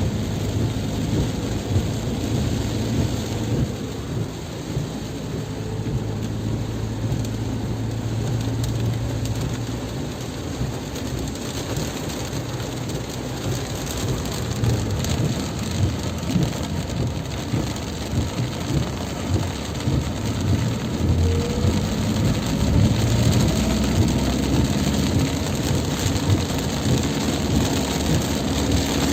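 Heavy rain pouring down steadily, with a low continuous rumble underneath.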